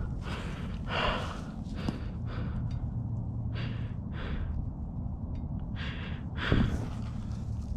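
A winded rider gasping and breathing hard after a dirt bike crash knocked the breath out of him: about eight ragged breaths, the loudest near the end, over a low steady rumble.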